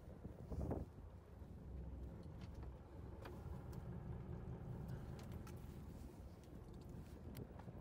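Low, steady rumble of a fishing boat's engine, with a thump about half a second in and a few light clicks.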